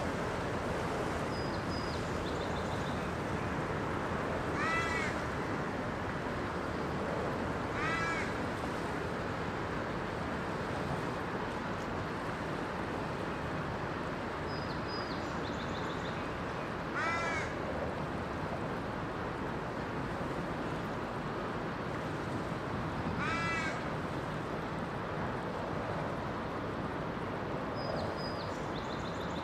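A bird gives four single short calls, several seconds apart, over a steady background rush. A smaller bird's faint high chirps come now and then.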